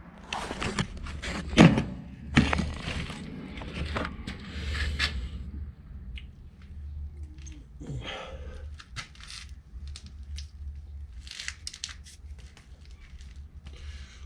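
Knocks, cracks and scraping of hands-on work on a van's bodywork: a busy run of sharp impacts and rasping scrapes over the first five seconds, then scattered lighter clicks and taps.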